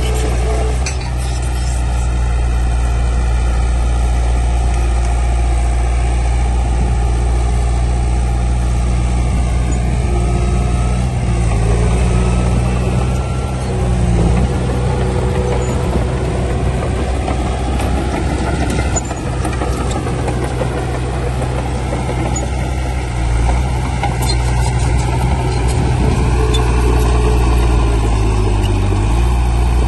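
Heavy diesel earthmoving machinery running steadily under load, with a wavering higher whine over the engine; the engine note dips near the end.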